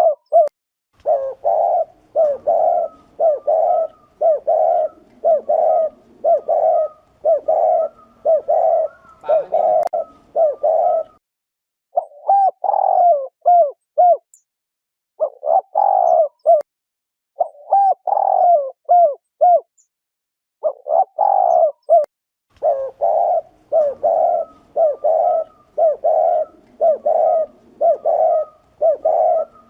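Spotted dove giving its 'gù' cooing: runs of short, quick coos, several a second, loud and close. The coos thin out with short pauses in the middle, then come thick and fast again near the end.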